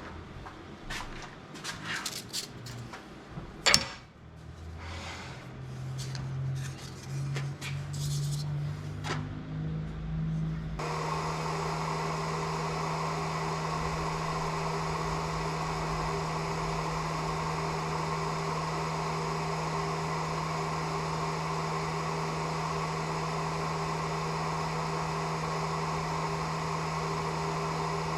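A few clicks and knocks of handling, then an electric wood lathe's motor is brought up to speed: its hum rises in steps over several seconds, then runs steadily with a hiss above it.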